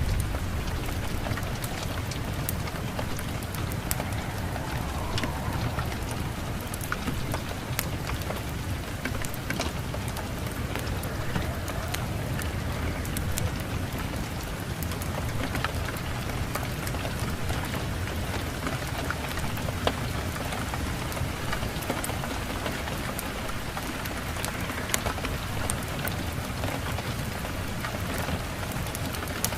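Steady rain mixed with a crackling wood fire: an even hiss over a low rumble, with sharp crackles scattered throughout.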